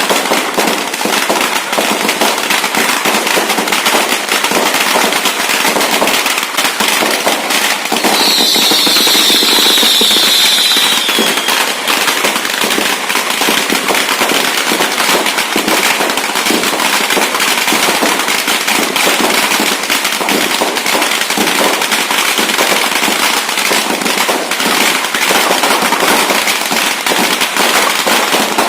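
Dense, unbroken crackling and popping of firecrackers and fireworks. About eight seconds in, a high whistle sounds over it for some three seconds, sliding slightly down in pitch.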